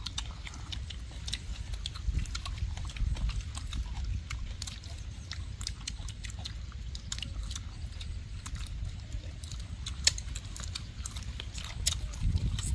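People eating close to the microphone: chewing and lip-smacking with many small irregular clicks, over a steady low rumble.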